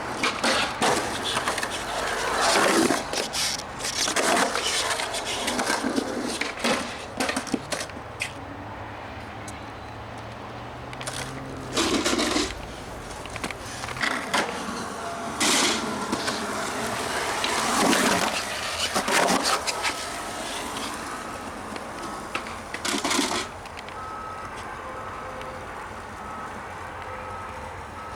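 Skateboard rolling, with repeated sharp clacks and knocks of the board and a few louder grinding or scraping bursts; it settles to a steadier roll near the end.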